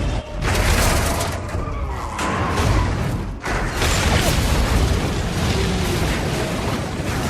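Action-film soundtrack: loud booms and crashing mixed with score music, with two brief sharp drops in level.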